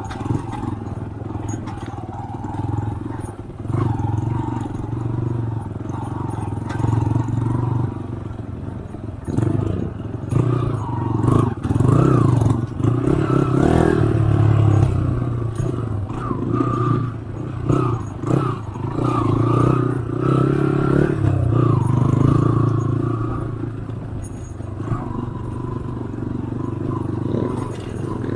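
Motorcycle engine running under way, its revs rising and falling.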